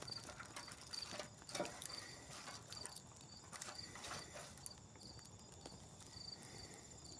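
Scattered faint snaps and clicks of dry twigs being handled and laid onto a small, newly lit campfire, over insects chirping in a regular high pulse.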